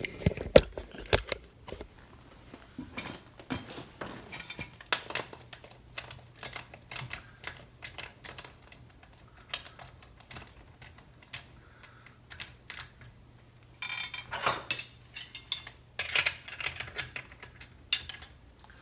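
Steel hand tools clinking and clicking against a chainsaw's bar studs and crankcase in irregular bursts of sharp metallic clicks, busiest near the end, as a damaged bar stud is worked on for removal.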